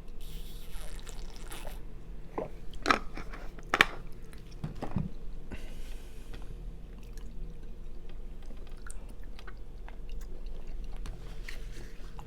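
Close-miked chewing of a mouthful of white chicken chili soup, with a few sharp clicks about three to four seconds in.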